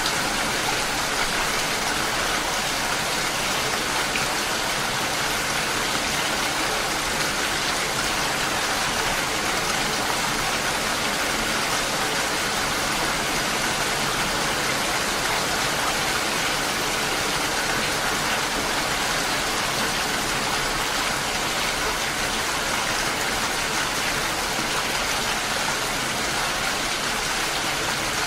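Steady rain, an even, unbroken hiss of falling drops.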